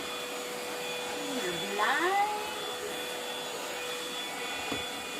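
MOOSOO cordless vacuum cleaner running steadily with a high motor whine, with a brief louder burst of shifting pitch about two seconds in.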